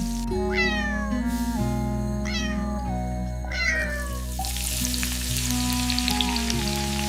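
A cat meowing three times, each call falling in pitch, spaced a little under two seconds apart.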